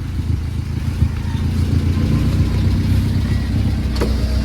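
A motor vehicle's engine running with a steady low hum, as heard while riding in or beside the vehicle.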